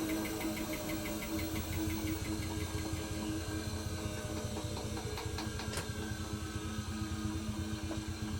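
Hoover H-Wash 300 Plus washing machine running, its motor and drum giving a steady hum with a fast flutter. A light ticking fades out about two seconds in, and a faint whine rises slowly higher up.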